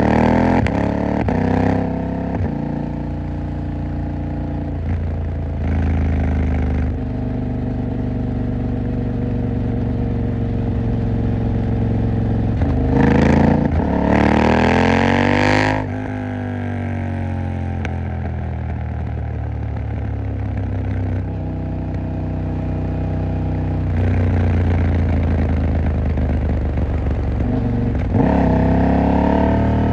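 KTM 890 Duke R's parallel-twin engine running at low, steady revs through most of the stretch. About halfway through it revs up hard, then drops away as the throttle closes, and it picks up again near the end.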